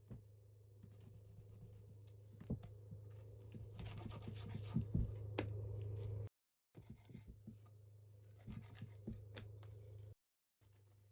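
Scratching and scraping noises with scattered clicks over a low steady hum; the sound cuts off abruptly about six seconds in and again near the end.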